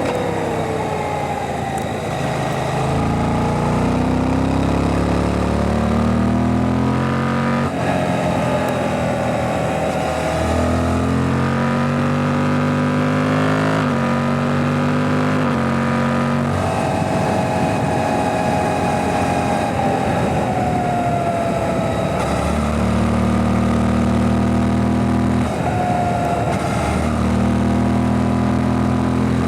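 Suzuki GSX-8S's 776 cc parallel-twin engine under way, heard onboard: it revs up through the gears with a sudden drop in pitch at each upshift, about four shifts in the first half, then holds steady, eases off with a falling pitch and pulls up again near the end. Wind rush runs underneath.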